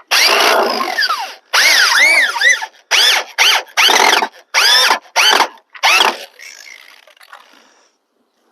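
Black & Decker power drill driving screws in a series of about eight short runs, the motor whining up and winding down in pitch with each, stopping about six seconds in.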